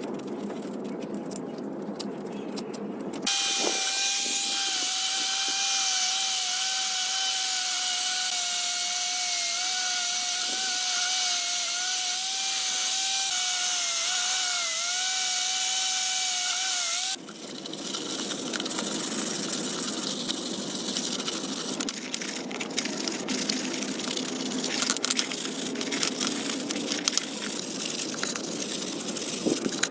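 A power tool running with a steady high whine over a loud hiss; it starts abruptly about three seconds in and cuts off about seventeen seconds in. Before and after it come scraping, rubbing and clicking hand-work sounds.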